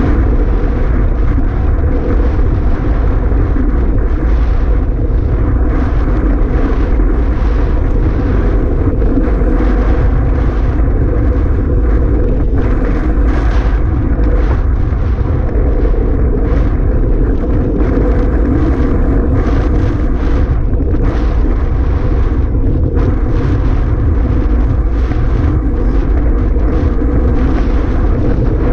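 Strong wind blowing across the microphone: a steady, loud rush, heaviest in the bass, with no let-up.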